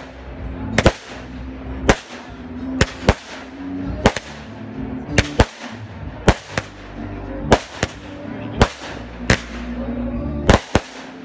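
Aerial fireworks going off in quick succession: about fifteen sharp bangs at irregular gaps of roughly half a second to a second, each trailing off with a short echo.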